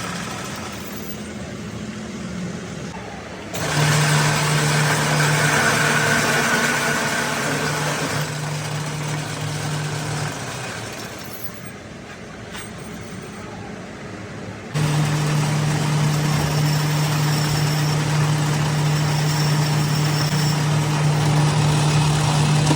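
A machine running in two long stretches, each switching on abruptly, with a steady low hum under a dense hiss, and quieter running noise in the gap between them.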